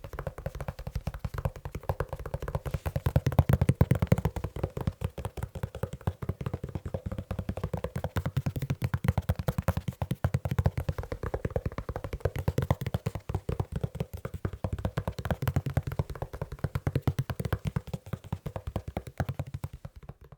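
Fingertips tapping fast on a leather shoe: a rapid, unbroken stream of soft taps that gets louder in stretches and stops right at the end.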